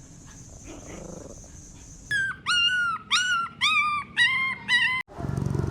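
Puppy whimpering: about two seconds in, six high-pitched whines follow in quick succession, each dipping in pitch at its end. Near the end it cuts abruptly to a low, steady rumble.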